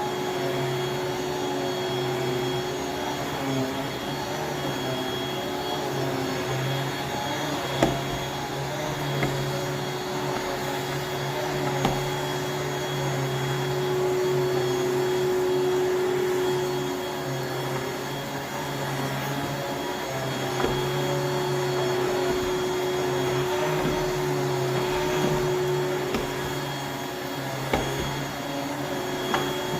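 Water-filtration vacuum cleaner running steadily, its motor hum wavering slightly in level, with a few short knocks and clicks scattered through.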